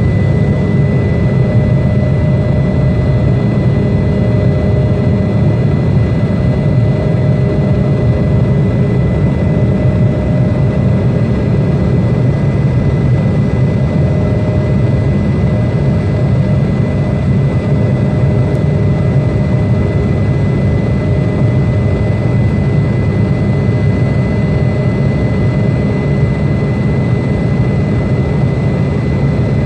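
Jet airliner engines running at a steady level: a deep rumble with a steady high whine above it, unchanging throughout.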